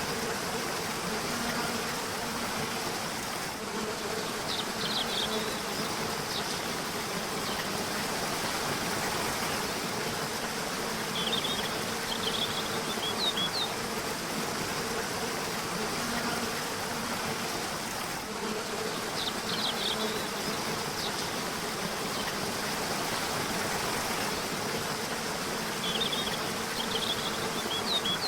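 A river running steadily, with short high bird chirps in small clusters every several seconds and a low, on-and-off buzz underneath.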